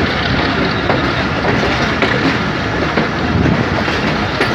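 Pakistan Railways passenger coach of the Jaffer Express rolling along the track, heard from its open doorway: a steady rush of running noise with a few sharp clacks as the wheels pass rail joints and points.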